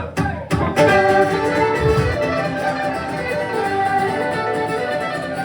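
Live fiddle playing the opening melody of a song, with a few sharp hits in the first second.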